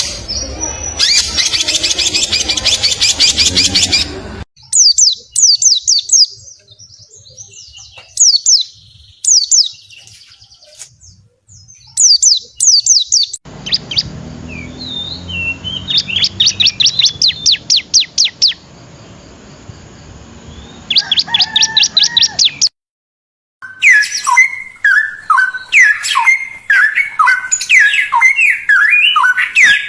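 Caged songbirds singing in several spliced recordings: fast high trills and rapid sweeping notes that start and stop abruptly at each cut. There is a brief silent gap near the end, then a different bird with lower, repeated up-and-down whistled notes.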